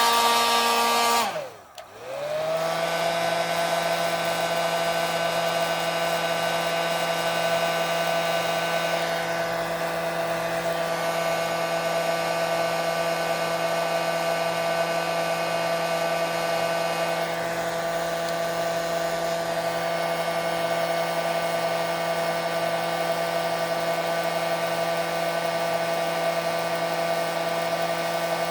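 Handheld blow dryer drying alcohol ink on the painting surface. About a second and a half in it is switched off and spins down, then comes back on and runs steadily at a lower pitch.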